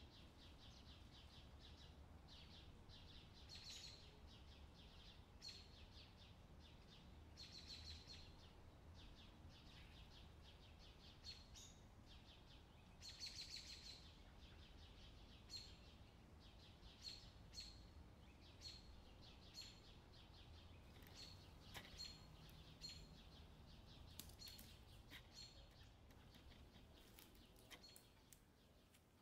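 Near silence with faint, short, high bird chirps repeating every second or so over a low steady hum.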